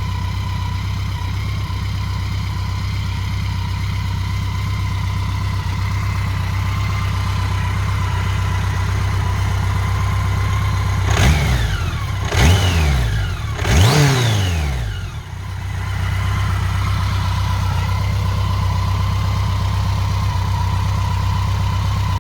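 BMW K100's inline four-cylinder engine idling steadily, blipped three times in quick succession about halfway through, the revs rising and falling back each time before it settles to idle again.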